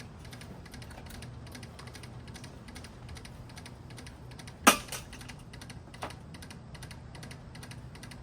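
Damaged hugger ceiling fan running, with a low motor hum and a fast, continuous clatter of clicks. A single loud, sharp impact comes about halfway through, followed by a lighter knock just over a second later.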